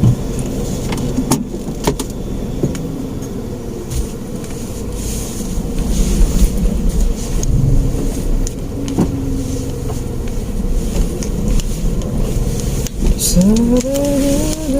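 Engine and road rumble of a manual Mitsubishi Mirage hatchback heard from inside the cabin as it moves off slowly, with a few light clicks and knocks scattered through.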